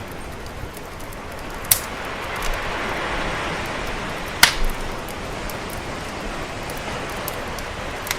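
Wood fire crackling, with a few sharp pops, the loudest about halfway through, over a steady wash of sea waves that swells and eases.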